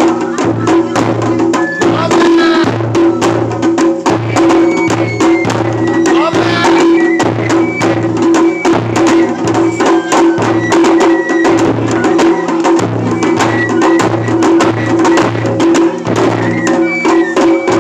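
Japanese festival music (matsuri-bayashi): drums beating a fast, steady rhythm, with short high melody notes over them.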